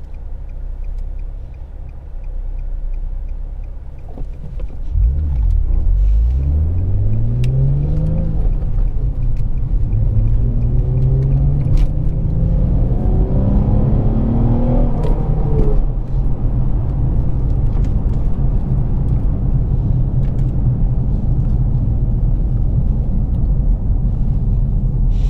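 Infiniti G35's 3.5-litre VQ35DE V6 through a Z1 touring exhaust. It rumbles low, then pulls away with a rising pitch through two gears, the first sweep about five seconds in and the second near the middle, before settling into a steady cruising drone.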